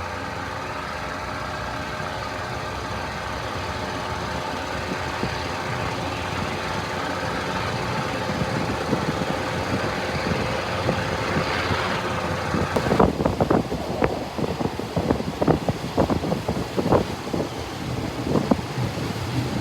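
RHN diesel railcar running with a steady engine drone and whine that slowly grows louder as the train gathers speed. From about two-thirds of the way in, a run of sharp, irregular clacks joins it: the wheels going over rail joints and points.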